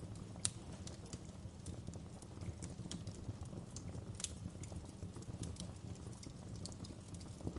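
Wood fire burning in a fireplace, crackling with irregular sharp pops over a steady low rumble; the loudest pop comes about half a second in.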